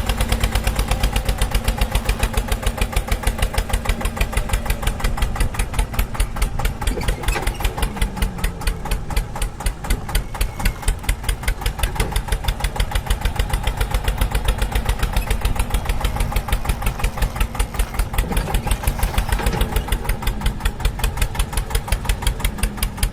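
Tractor engine chugging steadily at idle, with a rapid, even beat of firing pulses.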